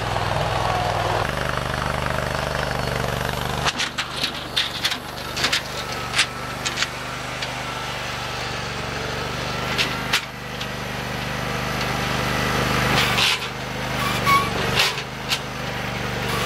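Simplicity Legacy garden tractor engine running steadily, its note dropping to a lower pitch about a second in. From about four seconds, a string of sharp cracks and knocks sounds over the engine.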